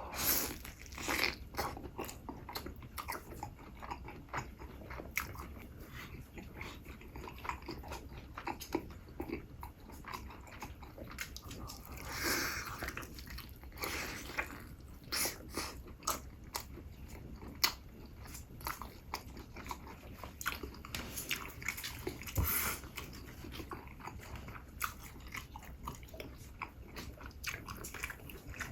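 Close-miked eating: repeated bites and chewing with crisp crunches, typical of mukbang ASMR chewing of chicken.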